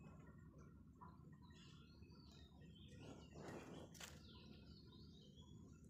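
Near silence, with faint background bird chirps and one short, soft scuffing noise about three and a half seconds in.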